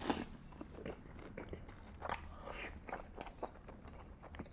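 A person biting into and chewing food, a burger or loaded beef fries, with scattered small clicks and soft crunches.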